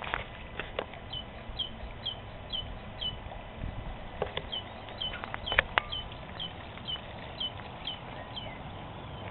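A small bird repeating a short, falling chirp about twice a second, in two runs with a pause in between. A few sharp taps and knocks sound in between, the loudest about halfway through.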